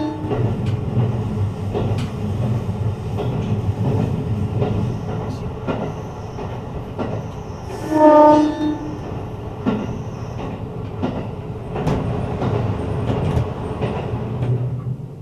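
Seibu New Red Arrow limited express electric train running on the line: a steady low rumble with scattered clicks of wheels over rail joints, and one short horn blast about eight seconds in.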